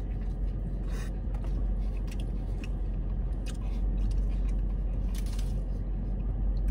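A man biting into and chewing a mouthful of burrito, with a few short crackles as he eats, over a steady low hum.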